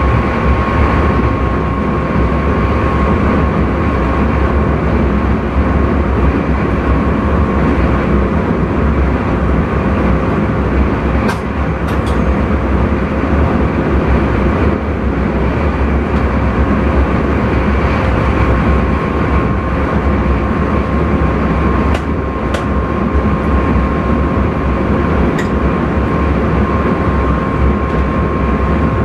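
Intercity train running along the line, heard from the driver's cab: a steady rumble with a constant high-pitched whine over it. A few sharp clicks come about halfway through and again later on.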